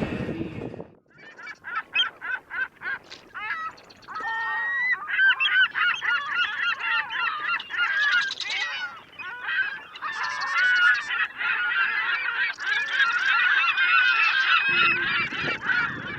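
A large flock of birds calling at once: short calls that bend in pitch, sparse at first, then thickening into a dense overlapping chorus about four seconds in.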